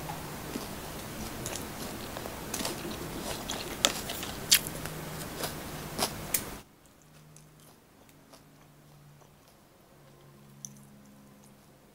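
Close-up sounds of a person chewing food, with sharp crisp crunches and mouth clicks. About six and a half seconds in, the background hiss cuts out suddenly and the chewing carries on much more faintly.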